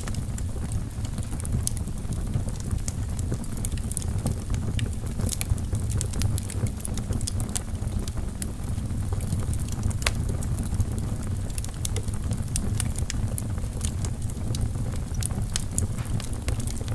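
Wood fire in a fireplace burning steadily: a low, even rumble of the flames with frequent sharp, irregular crackles and pops from the logs.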